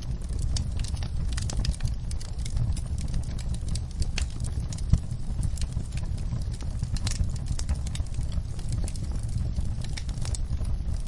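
Fire crackling, with frequent irregular sharp pops and snaps over a steady low rumble; one louder pop about five seconds in.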